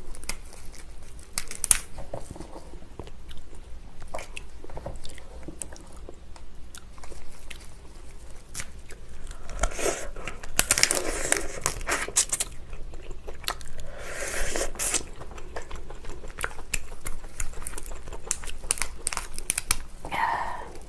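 Close-up mukbang eating sounds of lobster: chewing, biting and crunching with many sharp clicks and crackles. Two longer noisy stretches come about ten and fourteen seconds in.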